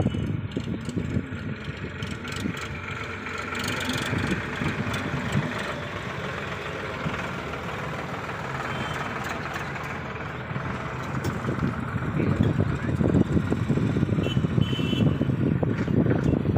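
Heavy diesel engine running steadily, growing louder over the last few seconds.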